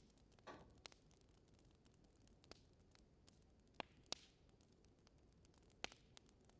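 Wood fire in a fireplace crackling: sparse, sharp pops and snaps a second or two apart over a faint low hiss. There is a brief hissing crackle about half a second in and two loud snaps close together near the middle.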